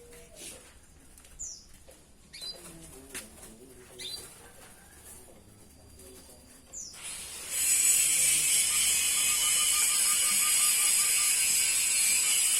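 Canary giving short, high, downward-sweeping chirps about every second and a half, then, about seven and a half seconds in, breaking suddenly into loud continuous song.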